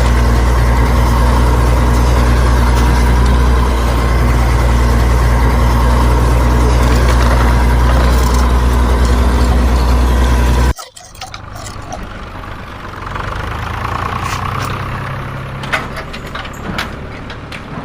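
Tractor engine sound running steadily, which cuts off abruptly about eleven seconds in; a quieter, uneven engine-like sound follows.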